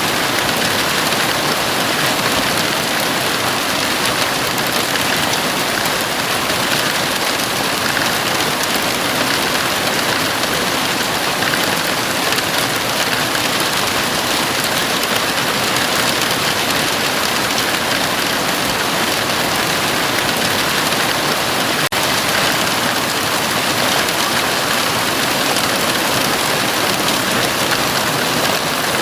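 Heavy rain falling steadily on a house roof, a dense, even hiss with no letup. There is a momentary dip about 22 seconds in.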